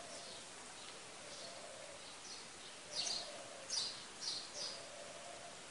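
Faint birds chirping over a steady hiss. The short, high calls come more clearly and often from about three seconds in.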